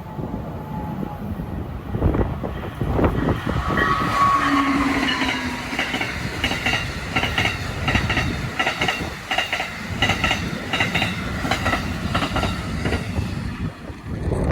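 A train passing on the rails with a low rumble. Its wheels click rhythmically over the rail joints, a few beats a second, for much of the passage. A brief pitched tone sounds about four seconds in.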